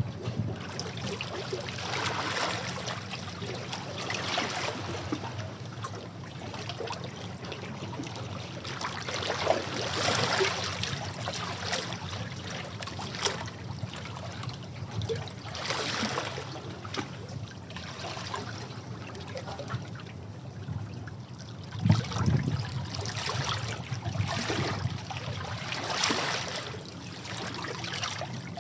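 Sea waves washing over rocks, rising in irregular surges every few seconds, the loudest about 22 seconds in.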